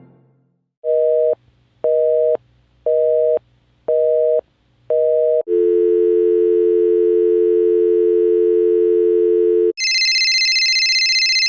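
Telephone line tones: a busy signal beeping five times, about one beep a second, then a steady dial tone for about four seconds, then a shrill high-pitched tone near the end.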